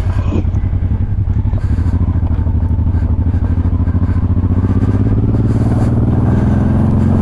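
Honda Transalp 600's V-twin engine ticking over at low revs with a steady pulsing beat, the revs climbing near the end.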